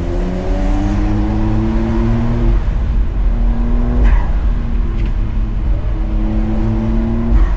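Porsche 992.2 Carrera's twin-turbo flat-six accelerating hard under full throttle. Its note climbs in pitch through each gear and drops sharply at the upshifts, about a third of the way in and again near the end. Wind buffets through the open top of the cabriolet.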